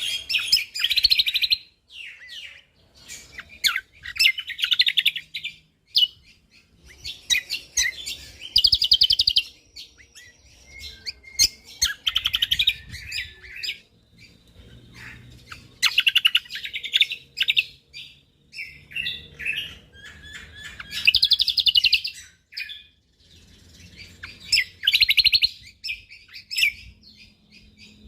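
Cucak kombok (kecial kombok) singing in loud, rapid-fire phrases of fast chattering notes, each burst lasting a second or two and repeating every few seconds with short pauses between.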